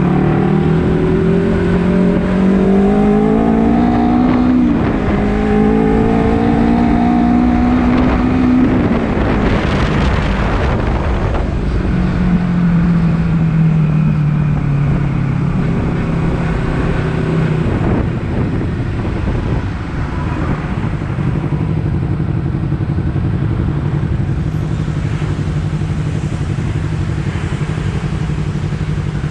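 Honda CBR250RR parallel-twin engine revving up under acceleration, its pitch dropping at a gear change about five seconds in and climbing again. It then eases off and runs steadily at lower revs through the second half.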